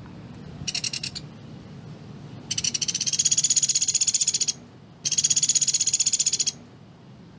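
Pelatuk beras woodpecker calling in rapid, closely spaced trills, its 'tembakan rapat' song: a short trill about a second in, then two long high-pitched trills of about two and one and a half seconds.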